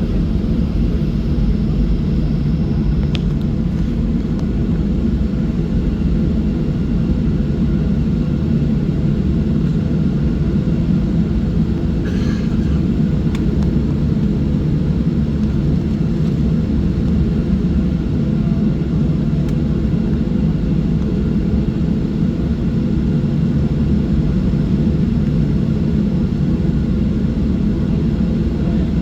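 Boeing 737-700 cabin noise just after takeoff: a steady low roar from the CFM56-7B turbofan engines and the rushing air, unchanging in level.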